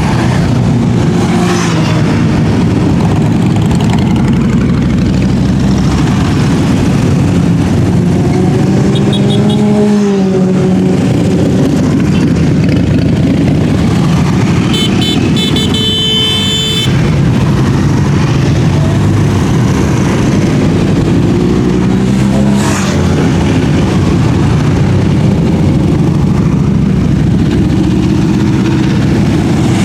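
Many motorcycles riding past in a parade, engines running and revving with pitches rising and falling. A horn sounds for about two seconds around the middle.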